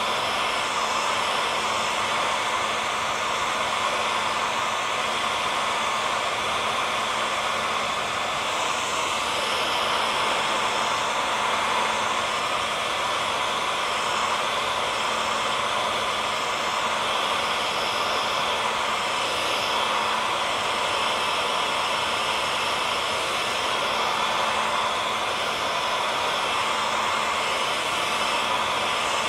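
Hair dryer running steadily, an even rushing hiss of air with a faint motor hum, used as white noise to lull a baby to sleep.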